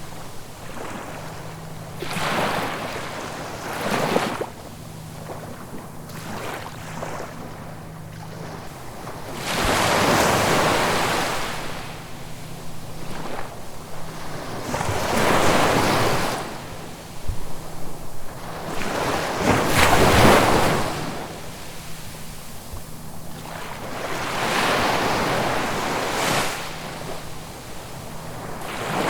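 Ocean waves breaking on the shore: a steady wash of surf that swells into a louder crash every few seconds, the biggest about ten, fifteen and twenty seconds in.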